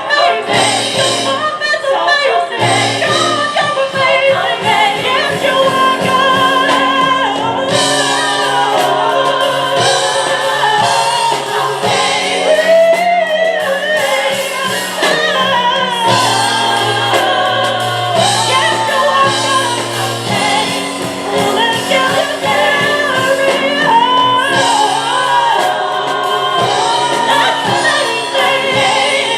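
Live gospel music: a small vocal group singing, with instrumental accompaniment underneath.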